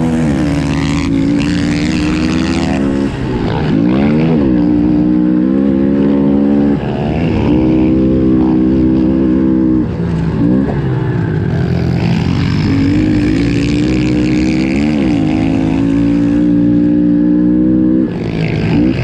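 Honda CRF110F pit bike's small single-cylinder four-stroke engine running hard under race throttle. The revs drop briefly and climb again several times.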